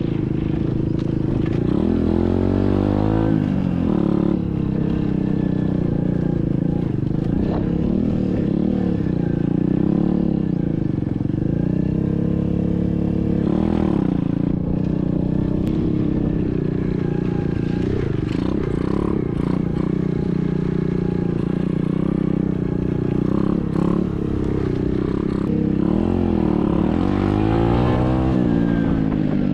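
SSR 125cc dirt bike's single-cylinder four-stroke engine running under way, its pitch rising and falling again and again as the throttle is opened and closed.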